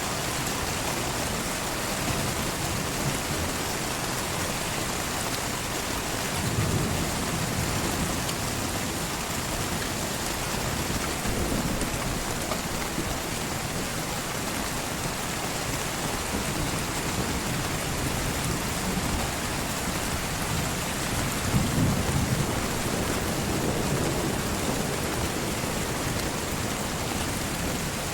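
Heavy rain falling steadily, with low rolls of thunder swelling in and out several times, the strongest about three quarters of the way through.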